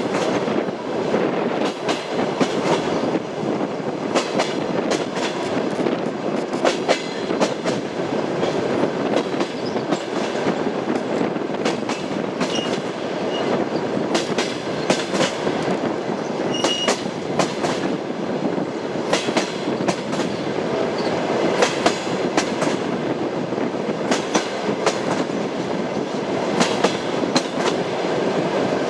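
Train running on the rails: a steady rumble with the repeated clack of wheels over rail joints, and brief high squeaks a few times around the middle.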